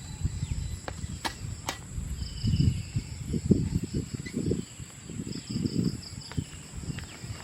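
Steady high-pitched insect drone outdoors, with loud low rumbling thumps through the middle and a few sharp clicks.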